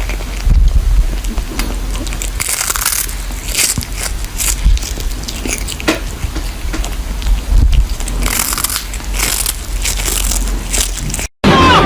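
Irregular crunching, crackling noises over a steady low rumble. The sound cuts off abruptly near the end.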